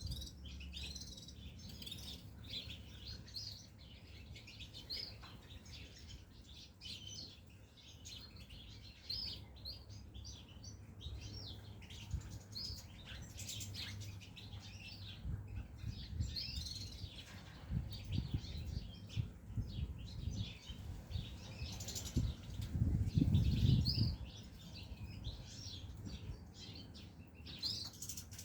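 Caged goldfinches chirping and twittering busily in many short calls, over a steady low hum. A louder low rumble lasts about two seconds near the end.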